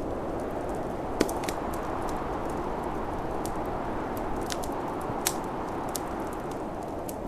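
Wood fire crackling, with irregular sharp pops, the loudest about a second in and again past the five-second mark, over the steady rushing noise of snowstorm wind.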